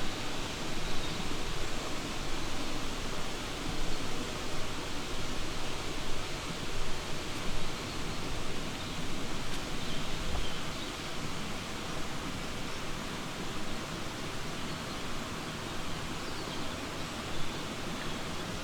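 Steady rushing of a flowing stream, with a few faint bird chirps now and then.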